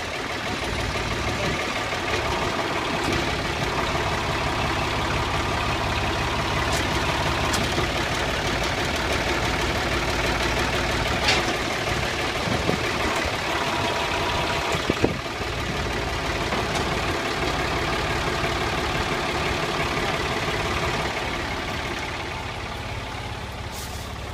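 A roughly 40 hp tractor engine running steadily, driving a Case IH 8430 round baler through its PTO, with the baler's chains and pickup reel turning. A few sharp knocks come near the middle, and the sound eases slightly near the end.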